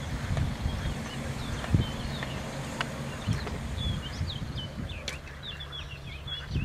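Small birds chirping in quick, short high calls, thickest in the second half, over a steady low hum, with a few scattered sharp knocks.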